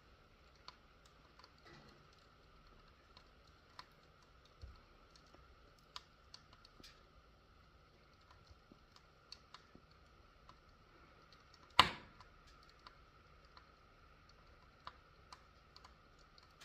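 Wood fire in a fireplace crackling softly, with scattered irregular small pops and one sharp, much louder pop about twelve seconds in.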